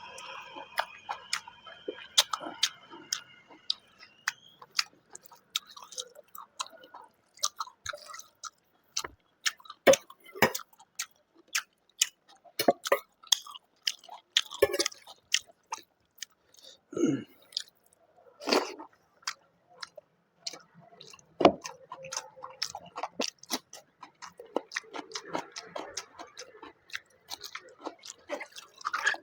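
Close-up mouth sounds of a person eating rice with mutton curry and salad: irregular wet chewing and lip smacks, with occasional louder smacks and crunches.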